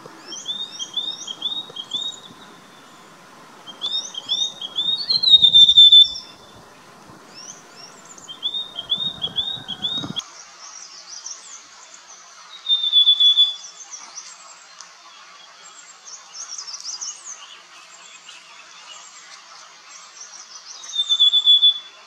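Rufous sibia singing. It gives short phrases of quick, repeated whistled notes on nearly the same pitch, three phrases in the first ten seconds. Later, two loud drawn-out whistles stand out from fainter chattering calls.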